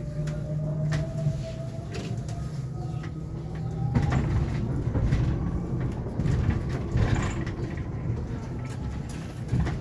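Cabin sound of a Hyundai Elec City electric bus on the move: road rumble and interior rattles, with a faint electric-motor whine rising in pitch near the start and again about four seconds in. Louder jolts come at about four and seven seconds.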